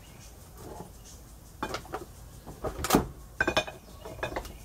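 Hand tools and bolts clinking and knocking on metal while bolts are being removed from an airboat belt box: a handful of sharp, separate knocks, the loudest about three seconds in, followed by a quick rattle.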